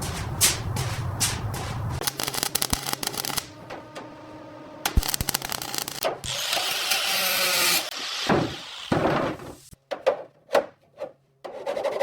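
A run of workshop tool sounds in quick succession: rhythmic rubbing strokes about two or three a second, then a clatter of clicks, a sharp knock, a hiss lasting about a second and a half, and a few separate thuds near the end.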